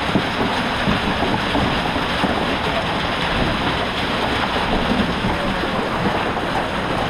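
Marble-sized hail and rain pounding the chicken coop in a heavy storm, a loud, steady din with no let-up.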